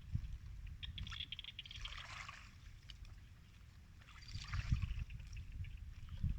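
Buffalo feeding: rustling, crackling bursts of fodder being pulled and chewed, twice, over uneven low rumbling thumps.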